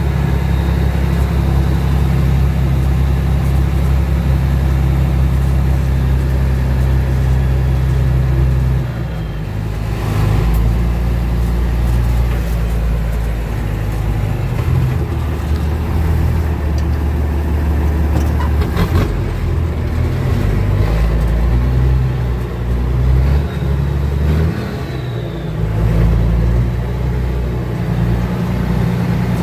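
M35A2 army truck's diesel engine running steadily under way, with a deep, low drone. The engine note drops and changes twice, about nine seconds in and again a little before the twenty-five-second mark, then picks back up.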